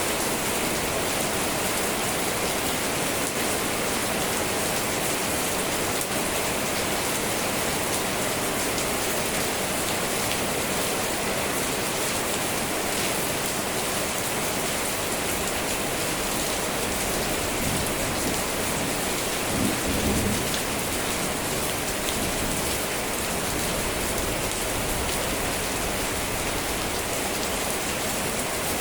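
Steady rain falling, an even hiss with no break. About two-thirds of the way through there is one brief, louder low sound.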